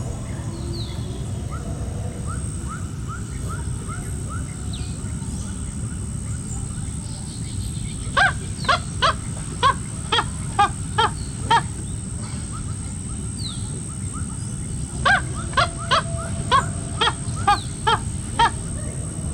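An animal calling in two runs of about eight short, pitched calls each, roughly two calls a second, over a steady low rumble.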